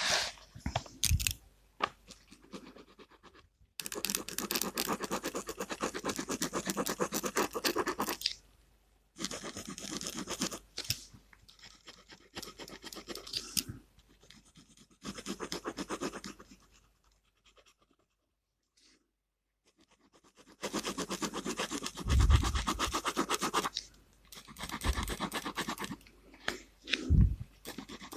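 Gel pen scratching across paper in quick back-and-forth strokes, colouring in, in stretches of a few seconds with pauses between them. A couple of dull low thumps come in the second half.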